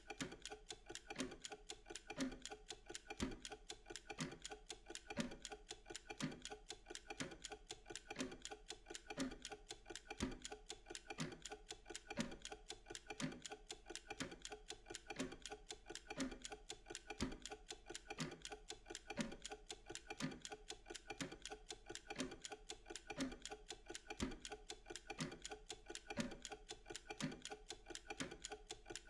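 Mechanical timer ticking steadily, with a rapid run of sharp ticks and a lower knock about once a second.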